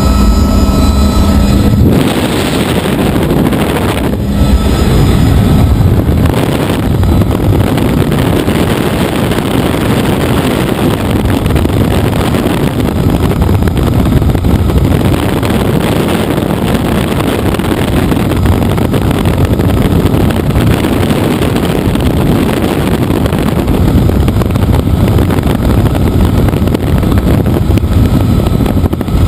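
Helicopter in flight, its steady rotor and engine noise largely masked by wind rushing over the microphone; the engine's steady whine stands out for the first two seconds and returns at the very end.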